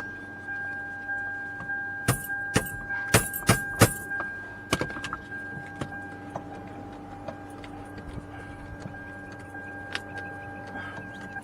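Car key rattled and jiggled in an ignition lock that is jammed by the steering wheel lock, with a cluster of sharp clicks and knocks about two to four seconds in and a few more after. A steady high tone sounds underneath.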